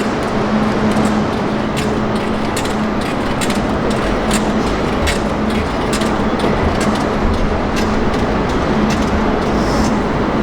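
City street noise with road traffic, wind buffeting the microphone and a steady low hum, like an idling engine, under it. Scattered sharp clicks run through it.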